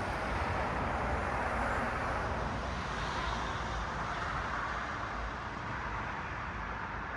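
Cars passing on a city road: a continuous rush of traffic noise with a low rumble underneath, easing slightly near the end.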